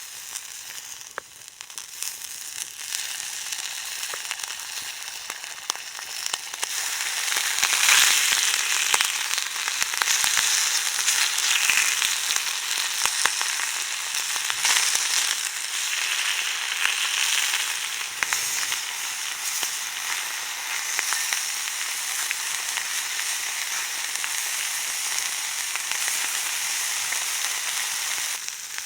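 Meat sizzling in a pan over a campfire: a dense, continuous hiss full of small pops and spits. It grows louder about seven seconds in and then stays steady.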